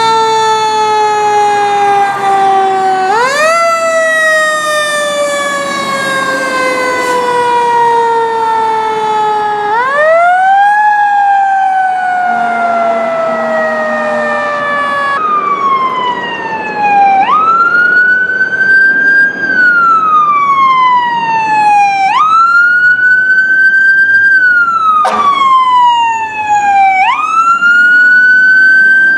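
Fire truck siren wailing. It winds up quickly and then slowly falls in pitch, over and over, and switches about halfway to shorter, regular rise-and-fall cycles.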